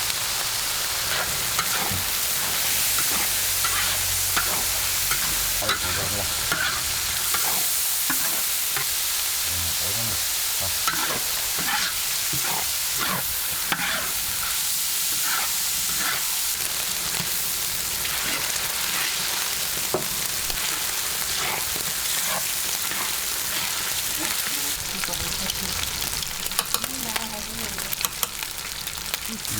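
Food frying in hot oil, sizzling steadily while it is stirred, with a utensil scraping and knocking against the pan now and then.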